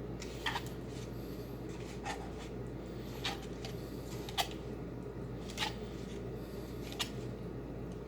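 Slime being mixed by hand: a short, sharp click or pop about once a second over a steady low hum.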